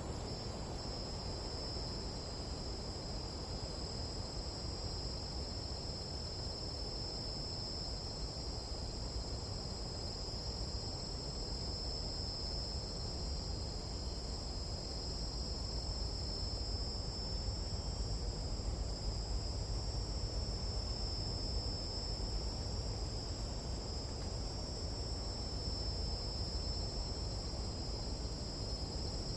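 Nighttime jungle insect chorus: a steady, unbroken high-pitched trilling in two pitches, over a low steady background noise.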